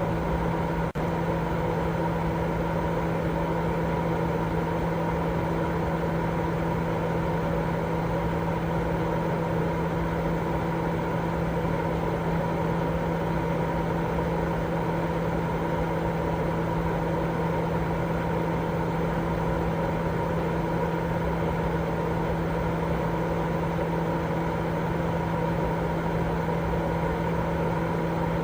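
Steady, unbroken baby-sleep 'white noise': a constant low rushing drone with a few steady humming tones in it, like a fan or motor running, with a brief dip in level about a second in.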